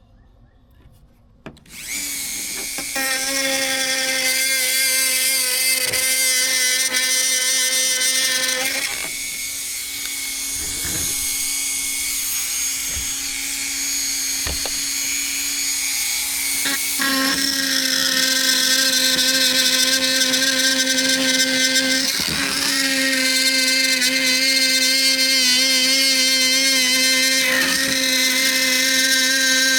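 Dremel rotary tool starts up about two seconds in and runs with a steady high whine as it cuts a patch out of a sheet of plastic. It is a little quieter from about nine to seventeen seconds in, then picks up again.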